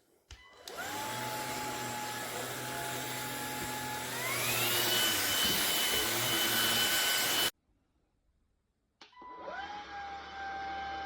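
Cordless stick vacuum cleaner with a brushless motor switched on: it spins up to a steady high whine with a rush of air. About four seconds in the pitch rises and it gets louder as it steps up to a stronger suction setting. It stops abruptly, then starts again and spins up near the end.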